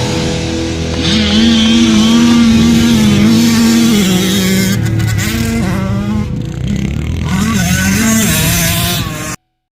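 Two-stroke dirt bike engine revving while riding, its pitch rising and falling over and over as the throttle opens and closes, then cutting off suddenly near the end.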